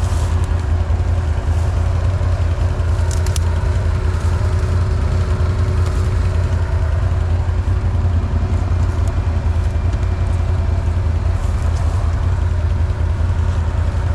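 Can-Am off-road vehicle engine idling steadily with a low, even drone.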